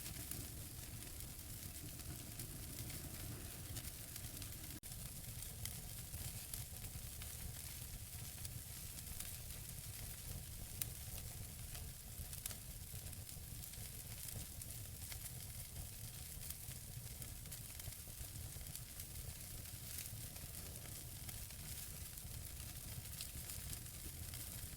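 Wood fire burning in a fireplace: a steady soft hiss with many small crackles and pops from the burning logs, one sharper pop about eleven seconds in.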